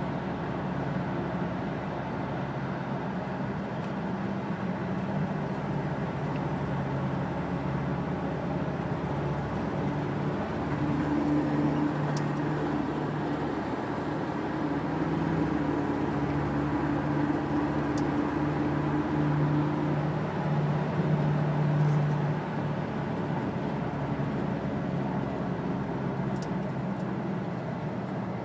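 Inside the cabin of a 1999 Ford Crown Victoria at expressway speed, a steady low hum sits over the road noise. The hum swells louder for about ten seconds in the middle, then eases back. The hum appears only above about 40 mph and its cause is unknown.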